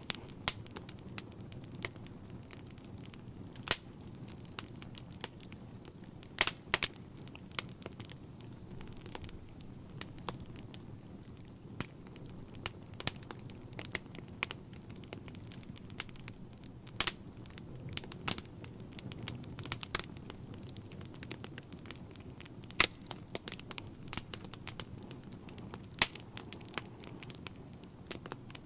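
Wood fire burning in a fireplace: a low steady rumble of flames with irregular sharp pops and crackles of burning logs, some much louder than others.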